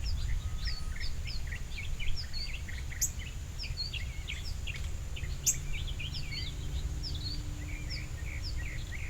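Several small songbirds chirping at a feeding station, many short overlapping chirps and twitters, with two sharp high chip notes about three and five and a half seconds in. A steady low rumble and a thin high steady tone run underneath.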